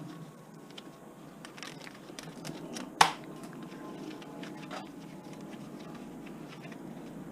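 Commercial electric wire stripper running steadily, with crinkling and small clicks from the insulated copper wire being fed and handled, and one sharp knock about three seconds in.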